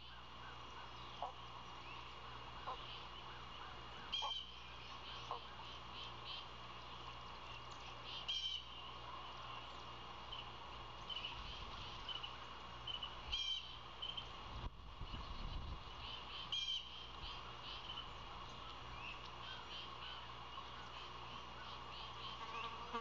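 Wild birds calling outdoors: a short, sharp call repeats about every four seconds, with fainter chirps between, over a steady high hum of background chorus. A couple of low rumbles come in the middle.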